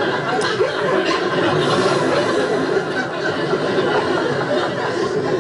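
Canned audience laughter: many people chuckling and laughing at once, going on steadily.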